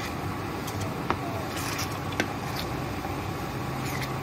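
Chicken in yogurt masala sizzling steadily in a non-stick kadhai as a wooden spatula stirs it, with two light clicks of the spatula against the pan about one and two seconds in.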